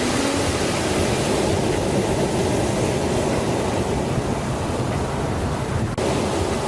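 A steady, even rushing noise with no clear tones, like a surf or white-noise layer in a background soundscape.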